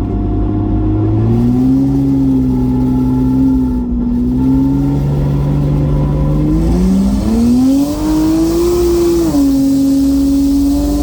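BMW N54 inline-six with a single Precision 6466 turbo, on 17 psi of boost, under full acceleration. The engine note climbs through the gears and drops back at gear changes about four seconds and nine seconds in.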